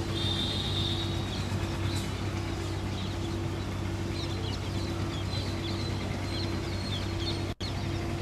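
A steady low hum with many short high bird chirps over it. The sound drops out for an instant near the end.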